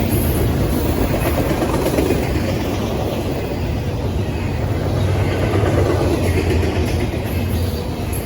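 Freight train rolling past: a steady, loud rumble of the cars' wheels on the rails.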